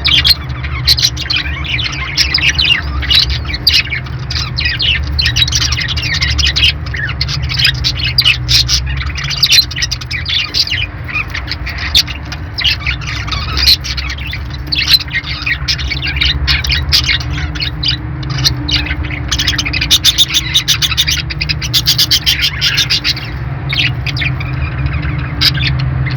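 Budgerigars (parakeets) chirping and chattering without pause, many quick high chirps and squawks overlapping, over a steady low hum.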